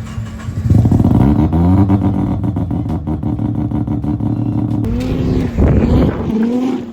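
Rotary engine of a rotary-swapped Subaru BRZ revving hard: the pitch jumps up about half a second in and holds high for about four seconds, then drops. A rough burst follows about a second later before the engine settles to a lower steady note.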